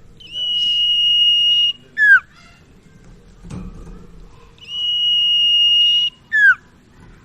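Common iora (sirtu/cipoh) singing: a long, steady high whistle held for about a second and a half, then a short sharply down-slurred note, the phrase given twice.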